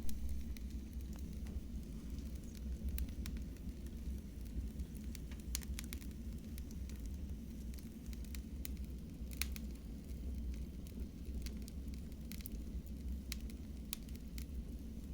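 Wood fire burning in a fireplace: a steady low rumble from the flames with irregular sharp crackles and pops scattered throughout.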